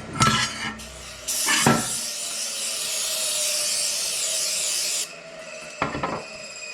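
A power-driven wire wheel scrubbing grease and grime off a steel differential cover: a steady, harsh, hissing scour that starts about a second in and cuts off suddenly a few seconds later. A few knocks and clinks of handling come before and after it.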